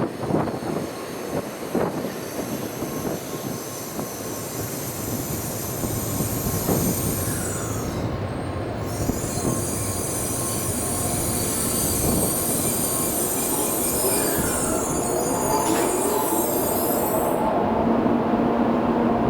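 Sanyo Shinkansen train running through the platform with a high, steady squeal over its rumble. The squeal breaks off briefly about eight seconds in and stops near the end, when a few steady tones come in.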